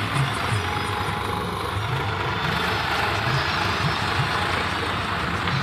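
Swaraj 855 tractor's diesel engine running steadily, with an uneven low chugging.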